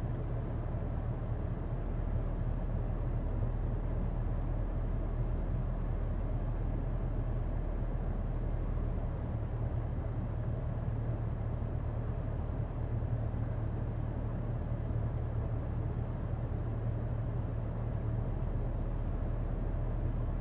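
Vehicle engine idling: a steady low drone that holds level throughout.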